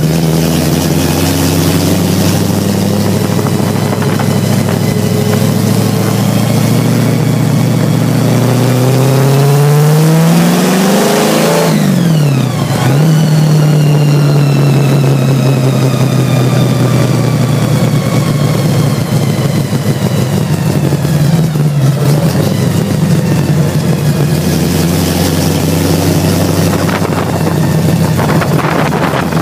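Supercharged 427 big-block Chevy V8 in an Anglia gasser, heard from inside the car while driving. The revs climb for a few seconds, then drop sharply about twelve seconds in. After that the engine runs steadier, slowly falling in pitch, with a high whine that follows the revs throughout.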